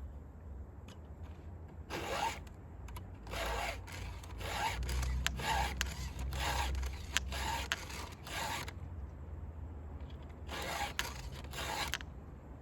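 Round file rasping across the cutters of a Stihl Farm Boss chainsaw chain: a run of about ten quick filing strokes, a pause, then three more, as the chain is touched up after hitting grit.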